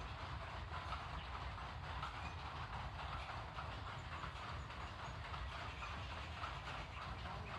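Water flowing and splashing steadily onto plant leaves, a constant patter of many fine drops, with a steady low rumble underneath.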